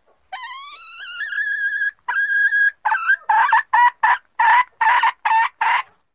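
Junglefowl hen calling: a long clear note that rises and then holds, and a shorter second note. These are followed by a quick run of about seven harsh cackling notes, roughly three a second.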